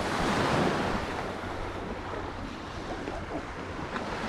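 Steady rushing noise of wind on the microphone and lake water, swelling slightly about half a second in.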